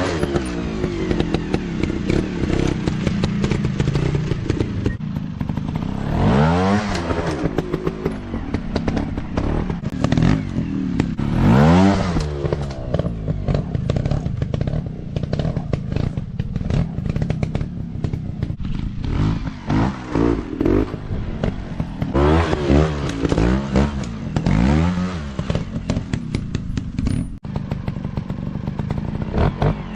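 Dirt bike engines revving up and dropping back again and again, with the pitch climbing and falling every few seconds, and bursts of clatter in between.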